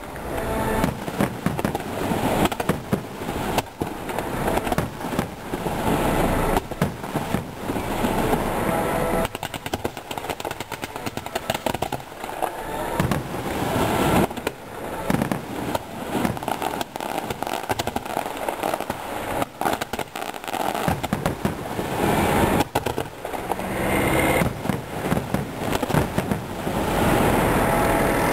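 Fireworks display: aerial shells bursting one after another in a near-continuous barrage of bangs and crackle.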